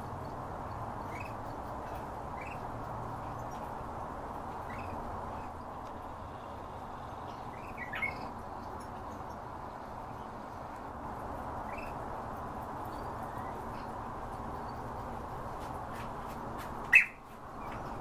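Pet bird chirping: short high chirps every few seconds, the loudest one near the end, over a steady low background noise.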